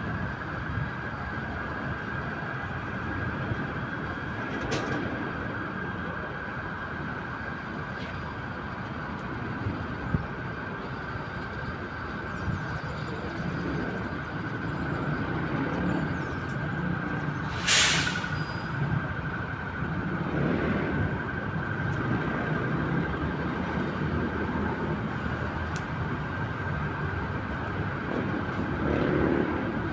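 Steady background of city traffic, a continuous rumble of passing vehicles, with one short, loud hiss about two-thirds of the way through.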